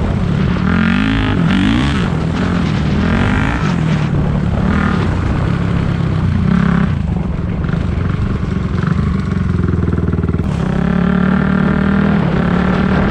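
Four-stroke dirt bike engine being ridden, its pitch rising and falling repeatedly as the throttle is rolled on and off, then holding steadier near the end.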